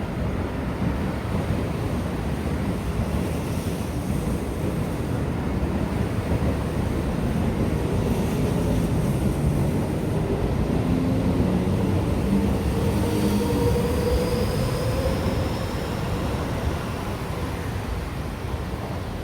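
Seibu Shinjuku Line electric train running past a level crossing: a steady low rumble, with a faint motor whine that rises in pitch over a few seconds about halfway through.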